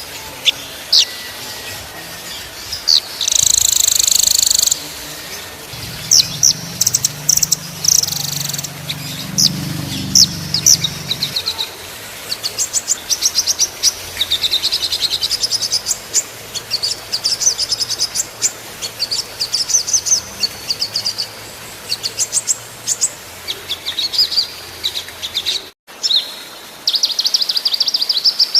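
Small songbirds singing in fast, dense trills and rattling strings of sharp high-pitched chips. The song drops out briefly about 26 seconds in, then a rapid trill runs on.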